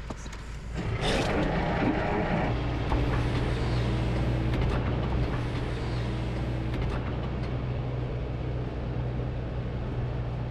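Tractor engine running steadily with a low, even hum. About a second in, a louder rush of noise comes in and fades after a second or so.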